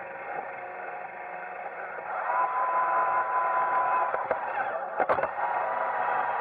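iRobot Roomba 880 robot vacuum running, its motor and brushes making a steady whirring noise with a thin whine that fades for a couple of seconds and then comes back. A few sharp knocks about four and five seconds in.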